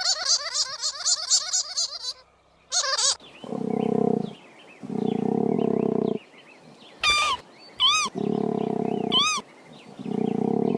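A big cat roaring: four long, low growling roars with pauses between them, starting about three and a half seconds in. A quick run of pulsed calls comes before them, and a few short high chirps fall between the later roars.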